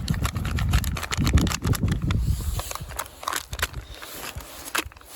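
Wind gusting across the microphone, a heavy low rumble that eases after about two and a half seconds, with scattered sharp clicks and taps throughout.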